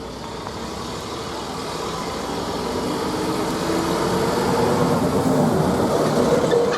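Ikarus 280 articulated bus's diesel engine running as the bus pulls away, getting steadily louder, with the engine note shifting in pitch around the middle.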